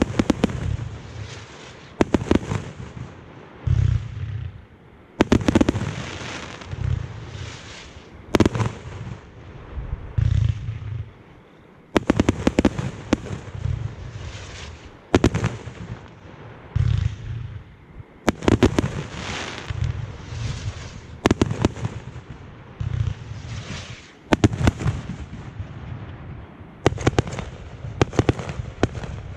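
A fireworks display going off in quick succession: sharp bangs about every second, with deep thumps between them.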